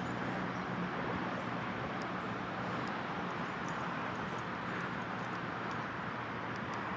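Steady outdoor background noise with a faint low hum.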